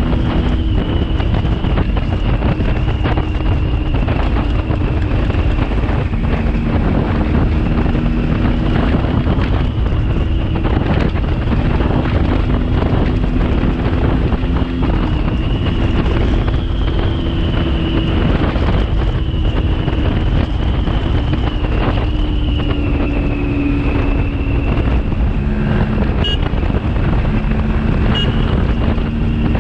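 Yamaha RX135 single-cylinder two-stroke engine running while the motorcycle is ridden, its note shifting up and down in steps, under heavy wind noise on the microphone.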